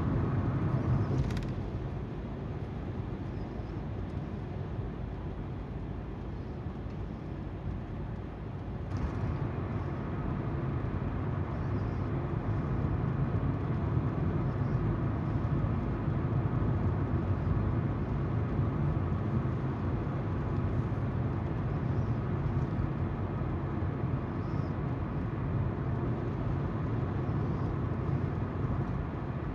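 Car driving along: steady tyre noise from the road and the low hum of the engine, heard from inside the car. It eases off a little about a second in and picks up again around nine seconds.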